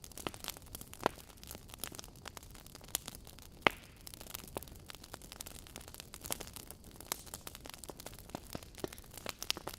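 Wood fire burning in a fireplace: irregular crackles and pops over a soft hiss, with one sharper pop near the middle.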